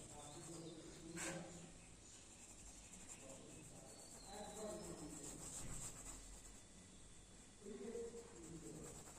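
Faint voices speaking in snatches in the background, over a low steady hiss.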